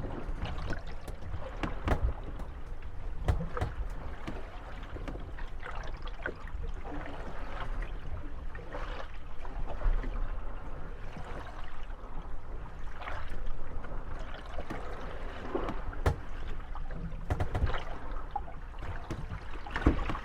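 Moored wooden gondolas rocking in small waves, bumping and creaking against one another over the lapping and sloshing of water. The knocks come irregularly, several every few seconds.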